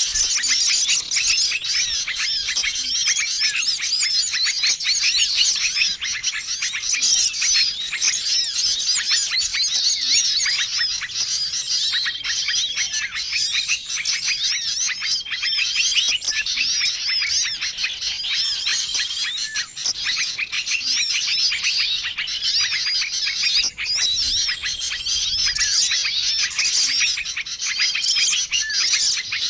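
A dense, busy chorus of many small songbirds chirping and chattering at once, as in a combined bird-lure call track. A short level whistled note recurs every few seconds over the chatter.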